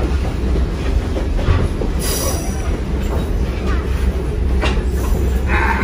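Steady low rumble of a moving passenger train's wheels on the rails, heard from inside a coach. Brief high wheel squeals come about two seconds in and again near the end.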